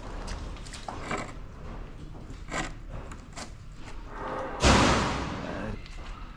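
Objects being handled and shifted, with scattered light knocks and clicks, then a loud thud about four and a half seconds in that rings and dies away over about a second.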